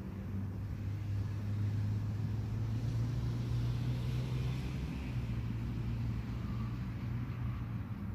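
A motor engine running with a low, steady hum, its pitch rising slightly around the middle and easing back.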